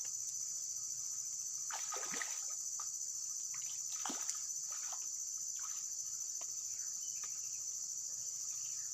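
Steady high-pitched chorus of insects, with a few short splashes of water at about two and four seconds in.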